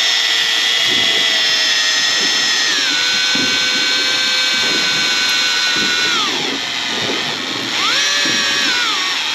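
Electric fishing reel's motor winding in line with a high-pitched whine. The pitch steps down about three seconds in and again around six seconds as the load comes on, then rises and falls again near the end.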